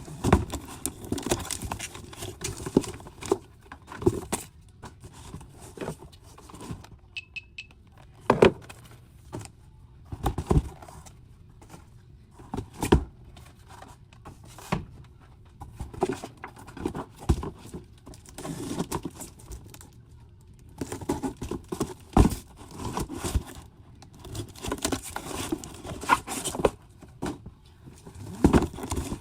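Merchandise and packaging being handled while unpacking boxes: irregular knocks, clatter and rustling of plastic and cardboard. A short high electronic beep sounds about seven seconds in.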